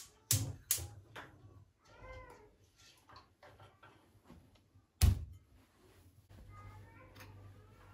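A cat meows briefly about two seconds in, among sharp kitchen knocks and clatter, two near the start and a loud one about five seconds in.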